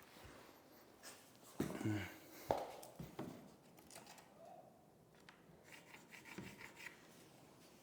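Scattered light knocks, scraping and a quick run of small ticks from handling, marking and cutting vinyl click planks, with a short grunt about two seconds in.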